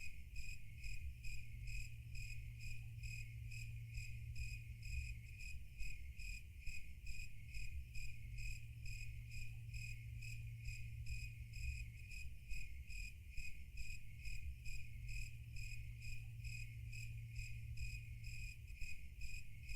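Crickets chirping in an even, steady rhythm, a few chirps a second, over a low steady hum.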